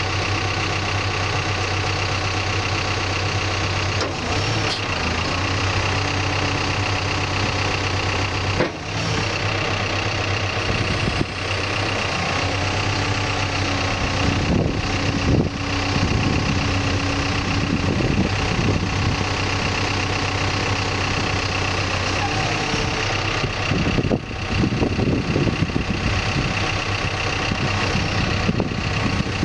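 Backhoe's diesel engine running steadily, with its pitch shifting at times as the hydraulics are worked through the controls.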